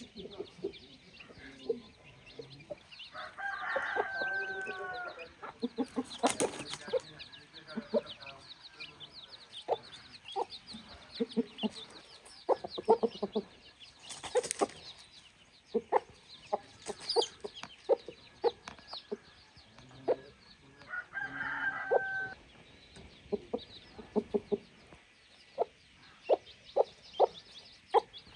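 Chickens clucking steadily, with a rooster crowing twice, about four seconds in and again about twenty-one seconds in. A few sharp knocks stand out among the clucks.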